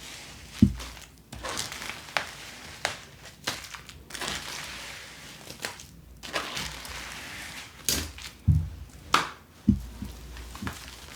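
Handling noises: rustling and crinkling with a series of sharp knocks and low thumps against a hard surface, typical of unboxing a doll from its plastic packaging.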